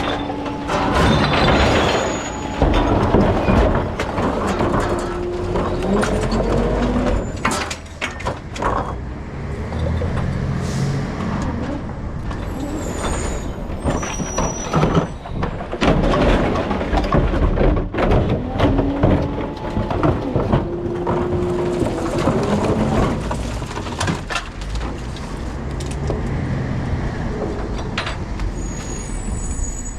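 Rear-loader recycling truck running with its engine working, a rising whine heard twice, and scattered clanks and knocks.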